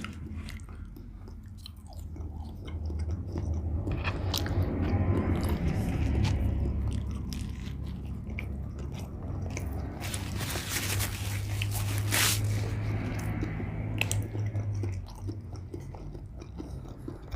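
A person biting and chewing food close to the microphone, with crunching and wet mouth clicks.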